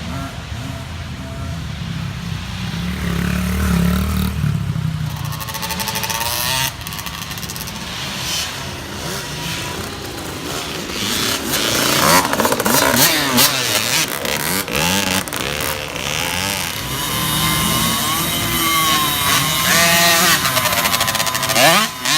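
Several small youth dirt bikes racing, their engines revving up and down as they accelerate and shift. They get louder about halfway through as bikes come closer.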